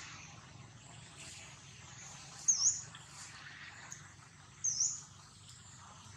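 A bird's short, high chirp twice, about two seconds apart, each note dipping and then rising quickly, over a faint steady hiss of background noise.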